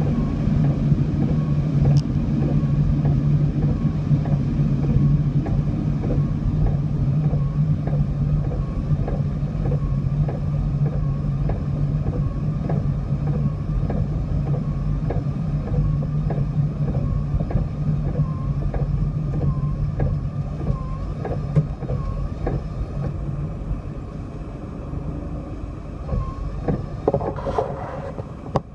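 Vehicle running with a steady low drone, many small ticks over it; the drone fades after about twenty seconds.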